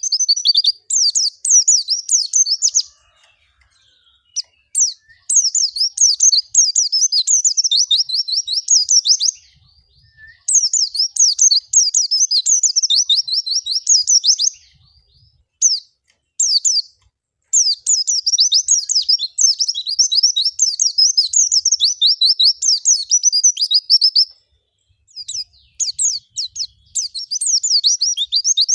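Pleci (white-eye) singing long, fast, twittering song phrases, each a few seconds long with short pauses between. This is the lively, chattering 'gacor' song used as a lure to set other pleci singing.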